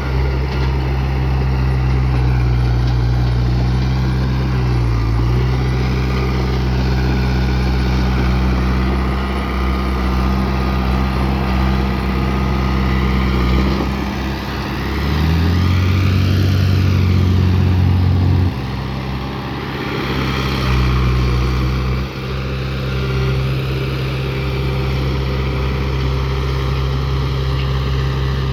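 Heavy diesel engine of earthmoving machinery running steadily. Its note rises for a few seconds just past the middle as it takes on load, then drops abruptly about two-thirds of the way through.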